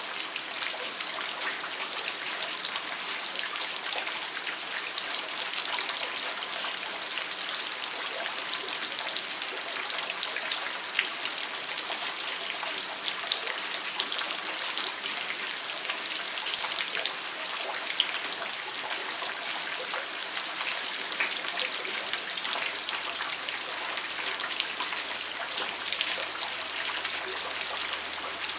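Steady rain falling, a dense patter of drops with now and then a louder single drip.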